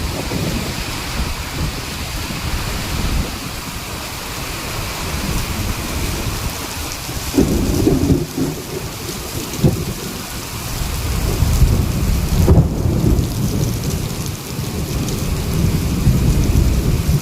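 Steady rain falling, with thunder rumbling through it several times, heaviest in the second half.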